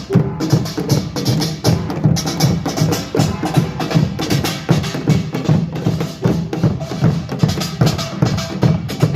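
Korean pungmul percussion ensemble playing together: drums and small gongs struck in a fast, dense, driving beat.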